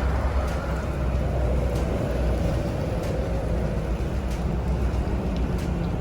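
A vehicle running with a steady low rumble, a faint tone drifting slightly lower and a few light clicks.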